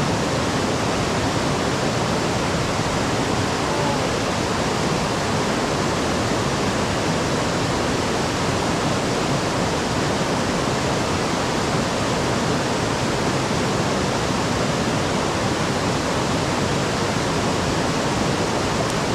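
Small river waterfall rushing, a loud, steady, unbroken roar of falling water.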